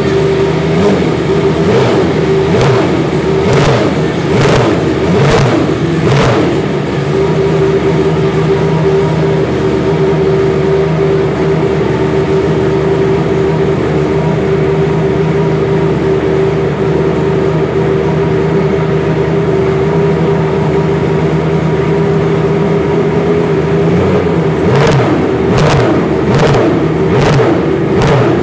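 Benetton Formula One car engine running at a steady, fast idle, blipped sharply several times in the first few seconds and again near the end.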